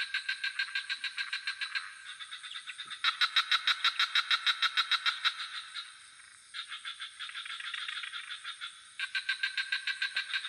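Frogs calling in rapid pulsed trills, in overlapping bouts of about two seconds each, over a steady high-pitched insect drone.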